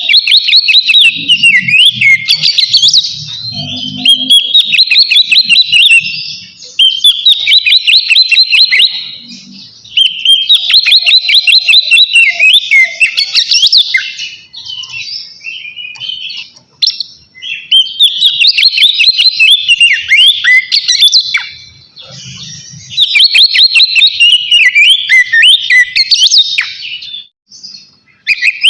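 Oriental magpie-robin (kacer) in full, loud song: about seven phrases, each a few seconds of fast, varied whistled notes, with short pauses between them.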